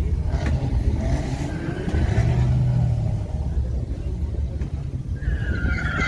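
Car engines rumbling, with a rev that rises and falls about a second in; a wavering high squeal joins about a second before the end.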